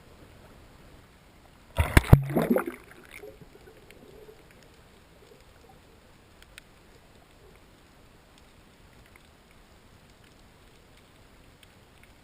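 A brief burst of water splashing and sloshing about two seconds in, lasting about a second and dying away.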